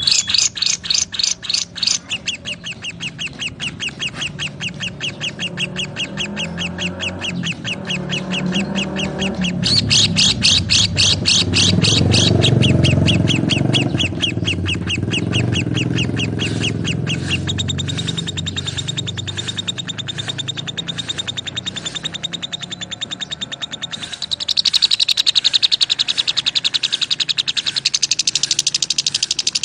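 Lovebirds chirping in a fast, continuous chatter of high, rapidly repeated notes, with a low rumble underneath midway through.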